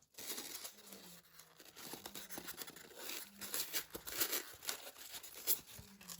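Irregular scratchy rustling and scraping of things being handled, in a quick run of uneven strokes.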